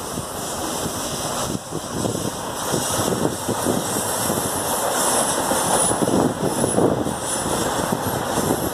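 CPTM electric multiple-unit passenger train passing close by: a rush of wheel and rail noise that grows louder as it nears, with rapid clacks from the wheels and a thin high squeal around the middle.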